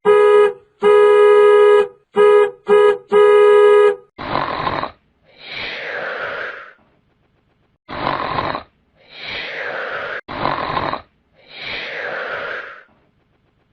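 Comedy sound effects: a loud buzzer-like tone in five short, stuttering blasts, then a rasping, breath-like noise repeated in about three rounds, each a short burst followed by a longer swell.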